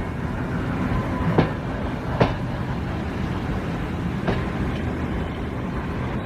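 Train running on the track: a steady rumble with a few sharp clicks at irregular intervals.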